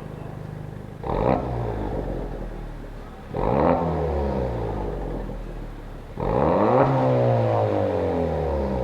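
VW Tiguan 1.4-litre four-cylinder engine through an aftermarket RES valved exhaust, revved three times from idle, each rev climbing quickly and falling back slowly; the third is held longest.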